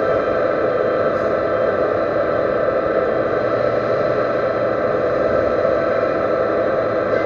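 Metal lathe running steadily, turning a steel shaft: a constant machine noise with several steady whining tones.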